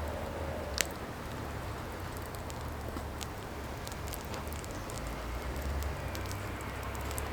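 Burning firewood crackling, with scattered small snaps over a low steady rumble and one sharper pop about a second in.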